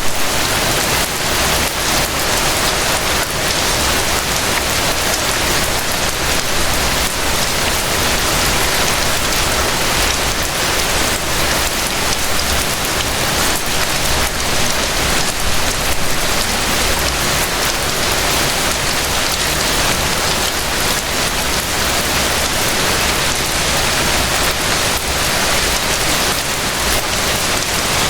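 Gentle rain falling steadily, a dense, even patter of drops that does not let up.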